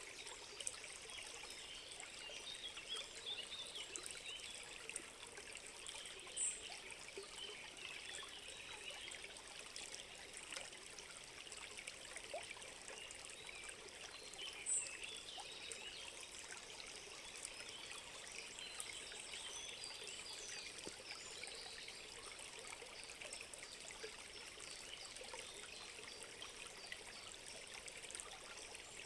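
A small stream trickling, a steady babble of water. Two brief high chirps stand out, about six and fifteen seconds in.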